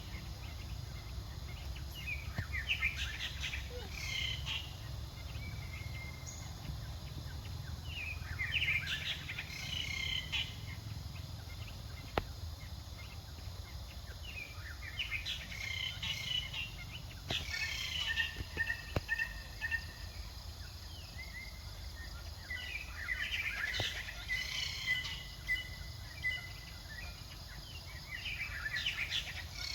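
Clusters of short, high chirping calls every few seconds, sometimes running into a brief held whistle-like note, over a steady low rumble.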